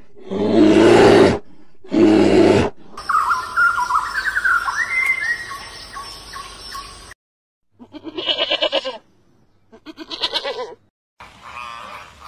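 A string of different animal calls, one after another: two loud, deep calls near the start, a run of high chirps and rising squeaks in the middle, then two bursts of rapid pulsed calls with short gaps between.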